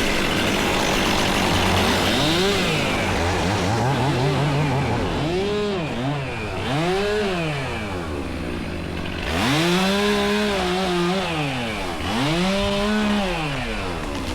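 Chainsaw revving up and down repeatedly, its pitch climbing and dropping in about six throttle pulls of a second or two each, the longest near the end.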